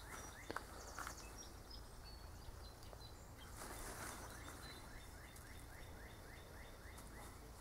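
Faint woodland ambience: small birds chirping in a run of short rising calls, about three a second, with a couple of soft clicks in the first second.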